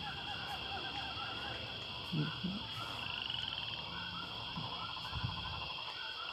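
Outdoor animal chorus: a steady high insect drone with many short repeated chirps and a rapid pulsed trill a little past the middle.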